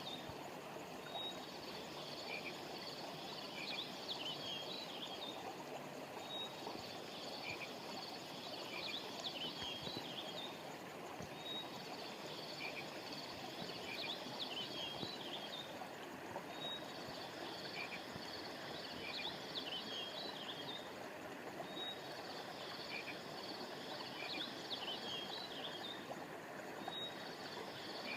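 Flowing river water with a chorus of high chirping from birds and insects over it; the same short chirping pattern comes round again about every five seconds.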